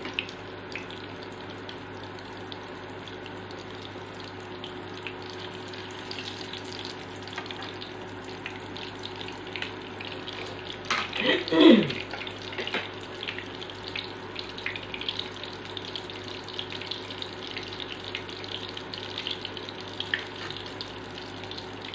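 Eggplant omelettes (tortang talong) sizzling in hot oil in a frying pan: a steady crackling hiss with a faint hum underneath. About halfway through there is a brief, louder scrape as a fork works the pan.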